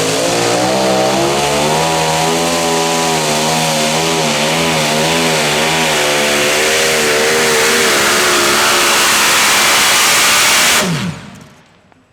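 Truck or tractor pulling engine running flat out under load, its pitch wavering up and down, with a loud rushing noise over it. The sound drops away abruptly near the end.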